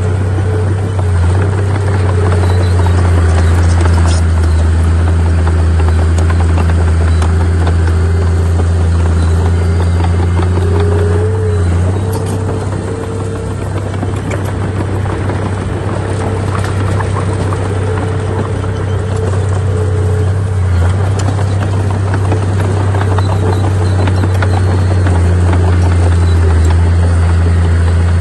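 Heavy earthmoving machinery's diesel engine running steadily, a deep continuous drone with small shifts in pitch around the middle.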